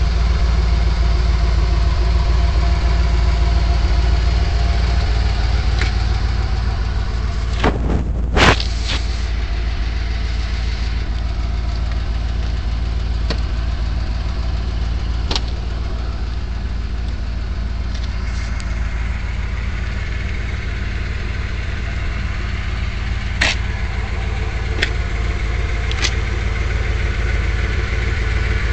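Freshly tuned 1979 Mercedes-Benz 450SL's V8 idling steadily. A few sharp clicks come over it, the loudest a pair about eight seconds in.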